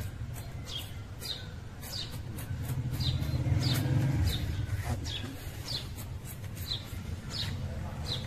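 A bird repeating a short, high, falling chirp about once every two-thirds of a second, over a low rumble that swells about three to four seconds in.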